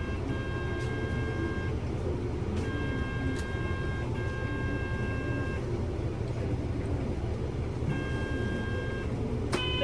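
Kyoto City bus running, heard from inside the cabin: a steady low rumble of engine and road. Over it a steady electronic tone of several notes at once sounds three times, each for one to three seconds, and a short click comes near the end.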